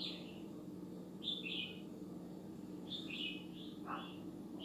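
Bird chirping: short falling chirps in small clusters, over a faint steady hum.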